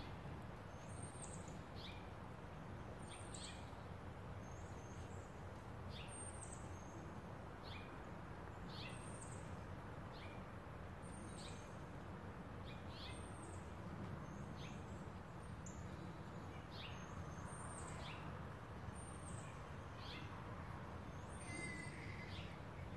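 A bird calling over and over, one short, sharp high note that drops steeply in pitch, repeated about every second to second and a half, over a faint, steady low background hum.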